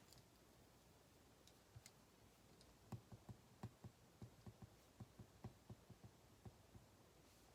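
Faint run of light clicks and taps at a desk, about four a second, starting about three seconds in after a couple of isolated ticks.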